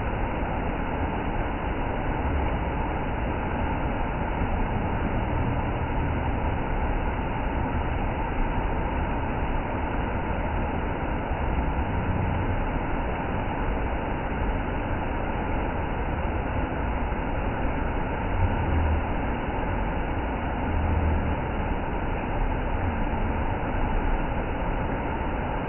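Waterfall roaring: a steady, unbroken rush of falling water, heaviest in the low rumble.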